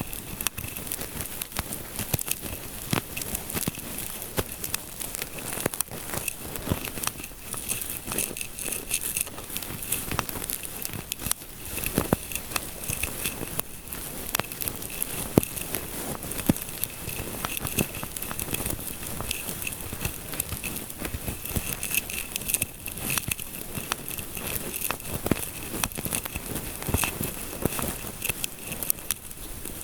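Close-miked ASMR scalp-massage scratching and rubbing: dense crackly rustling made up of many small clicks and scratches.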